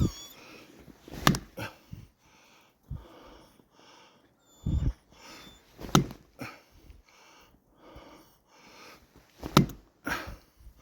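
Footsteps crunching through deep snow at a steady walking pace, with several sharp cracks like dry branches snapping underfoot.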